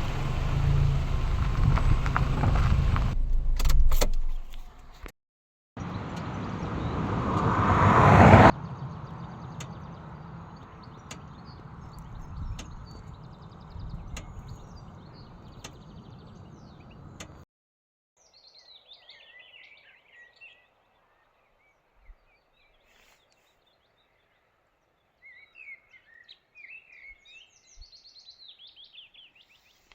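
Car driving noise in short cut-together clips, one swelling louder before it cuts off suddenly, then a quieter steady hum that stops. Birds chirp faintly over near quiet for the last part.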